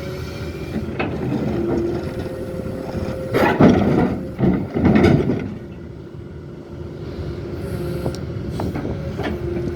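Heavy machinery's diesel engine running steadily, with a loud, rough surge of grinding noise lasting about two seconds in the middle.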